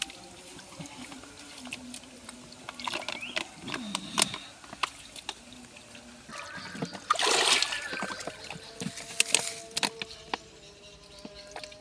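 River water splashing and trickling, with a few sharp splashes, the biggest about two-thirds of the way through.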